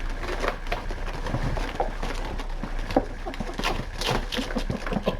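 Kitten batting and scrabbling at a toy: a run of irregular light taps, clicks and rustles.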